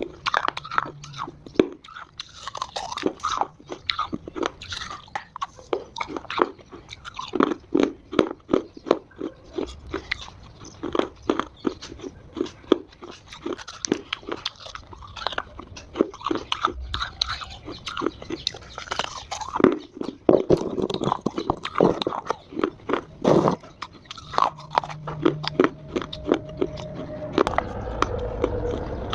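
Chunks of Multani mitti (fuller's earth clay) being bitten and chewed close to the microphone: a continuous run of sharp, dry crunches.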